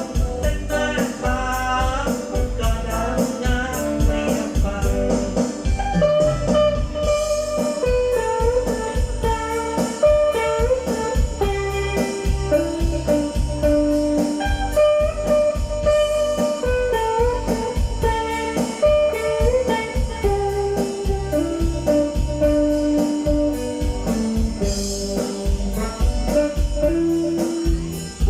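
Guitar-led music with a strong, even bass beat, played loud through an outdoor PA system with subwoofer cabinets while it is warmed up and checked.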